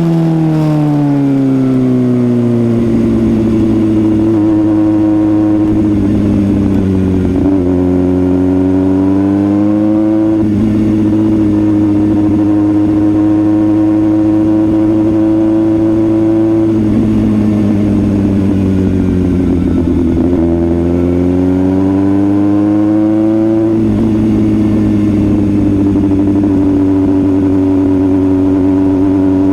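Suzuki GSX-S750 inline-four motorcycle engine under way, its pitch falling as the bike slows at the start, then rising again under acceleration about a third of the way in, holding, dropping again past the middle and climbing once more.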